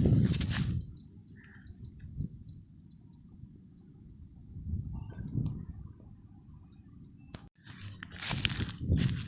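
Insects trilling in a steady, high-pitched drone, with a low rumble at the start and again near the end. The sound drops out briefly about three-quarters of the way through.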